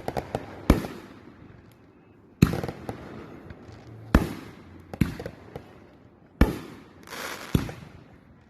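Fireworks bursting in a display: a string of sharp bangs every second or two, about seven in all, each trailing off before the next.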